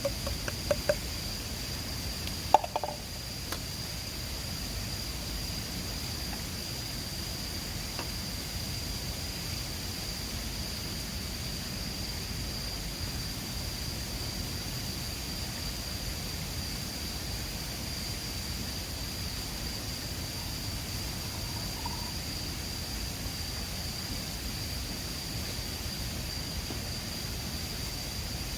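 Steady rushing of a mountain river with a continuous high-pitched tone over it. A few sharp clicks come in the first three seconds.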